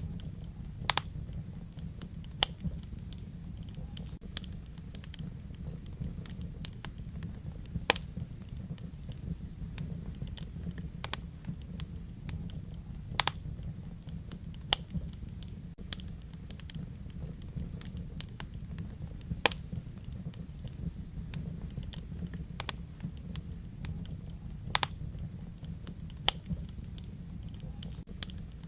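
Wood fire crackling in a fireplace: a steady low rumble of the flames with irregular sharp snaps and pops, a handful of them much louder than the rest.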